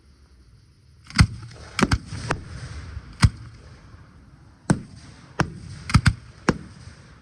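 Fireworks shells bursting, about nine sharp bangs at irregular intervals starting about a second in, some in quick pairs, with crackling between them.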